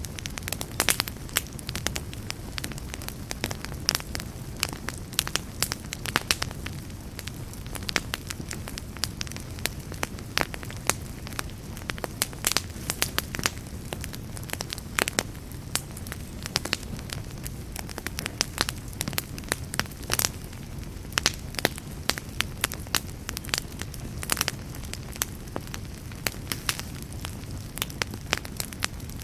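Wood fire crackling: irregular sharp pops and snaps, many per second, over a steady low rumble.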